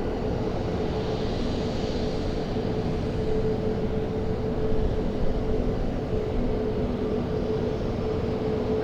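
Airliner engines running steadily, a continuous rumble with a held tone under it.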